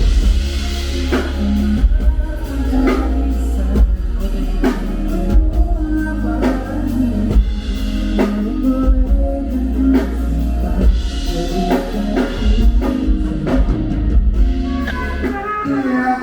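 Band music with a steady drum-kit beat over bass and guitar.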